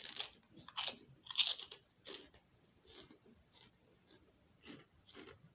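Fried pork rind being bitten and chewed: a few loud, crackly crunches in the first two seconds, then softer chewing crunches about every half second.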